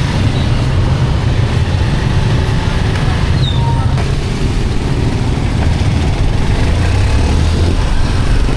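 A motor vehicle on the move: a steady, loud, low engine and road rumble with a rushing haze of wind or road noise over it.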